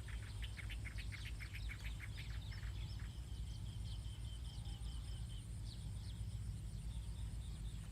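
Outdoor rural ambience: a bird gives a quick run of short chirps over the first three seconds, over a steady high insect drone and a low rumble.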